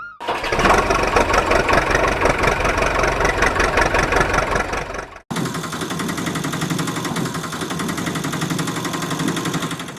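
An engine running with a fast, even chugging pulse, heard in two stretches split by a brief silence about halfway through.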